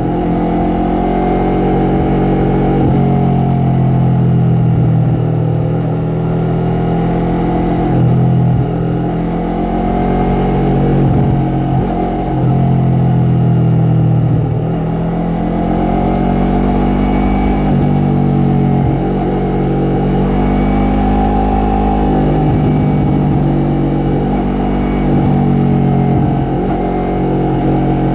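Yamaha MT-03 motorcycle engine and exhaust under way, the pitch repeatedly climbing as it accelerates and dropping as the throttle closes, several times over.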